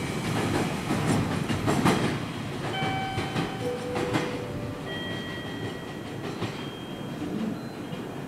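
Container freight train wagons running away along the track, their wheel clatter over the rail joints fading into a dwindling rumble. Brief thin, steady squeals from the wheels sound about three seconds in and again about five seconds in.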